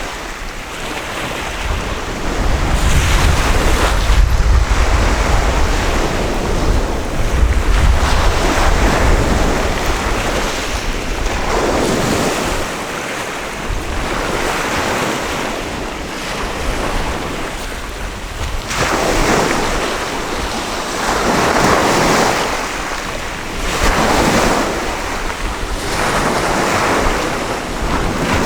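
Sea waves breaking and washing up a beach, the surf swelling and fading every few seconds. Wind rumbles on the microphone, heaviest in the first third.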